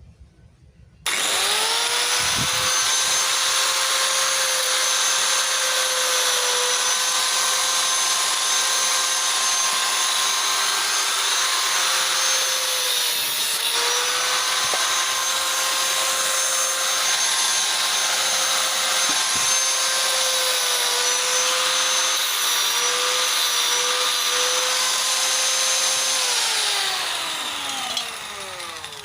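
Angle grinder cutting into the steel shell of a scrap refrigerator compressor. The motor starts abruptly about a second in and runs with a steady whine. Its pitch dips briefly about halfway and wavers later as it takes load, then falls away as it spins down near the end.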